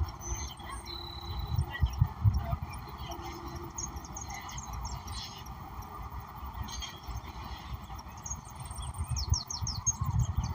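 Wild birds calling in an outdoor soundscape: scattered short chirps, a brief held whistle about a second in, and a quick run of short high notes near the end, over a steady background hiss. Low thumps come and go underneath.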